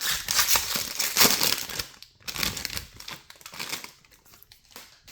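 A baseball card pack's wrapper being torn open and crinkled in the hands. The crackling is densest for about the first two seconds, then comes in shorter, sparser bursts.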